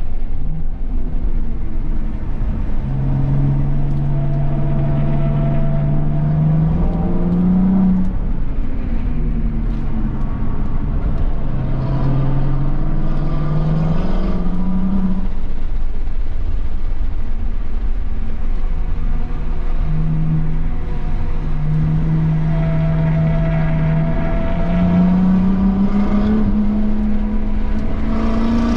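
A BMW M240i's turbocharged straight-six engine under load on a track, its pitch climbing in three long pulls and dropping back between them, over steady road and wind noise.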